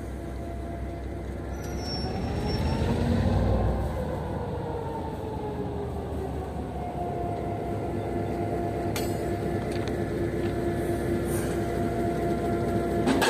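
Diesel train running on the rails, with a steady rumble and whining tones. About two seconds in the pitch rises and then falls back as the rumble grows louder, and a steady high whine holds after that.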